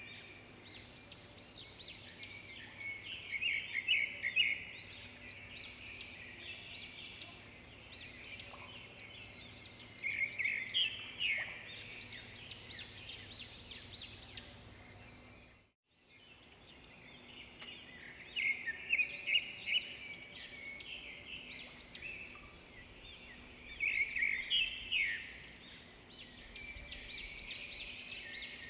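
A chorus of many small birds chirping and singing together, with overlapping short high notes and trills that swell and ease off. About halfway through, the sound fades out briefly to silence and then fades back in.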